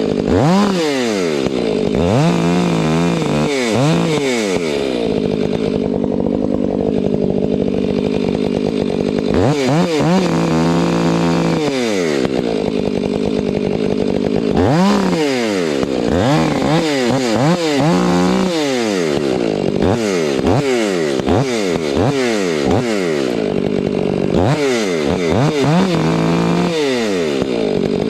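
Chainsaw engine revving up and down over and over, with a few longer stretches held at high speed.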